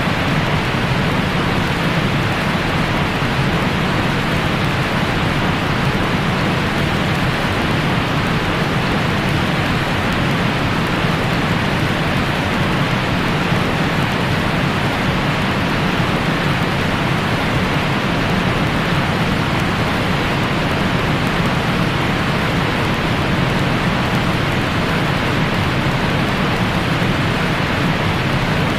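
Steady white noise of the kind played to lull newborns to sleep: an even, unchanging hiss, fuller in the lows and middle and dull in the treble.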